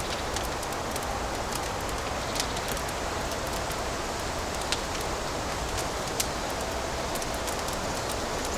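Fireplace fire crackling: a steady hiss full of small pops and ticks, with three sharper snaps spread through it.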